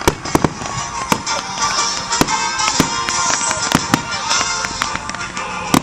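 Fireworks bursting in a string of sharp bangs, roughly two a second at uneven spacing, with music playing underneath.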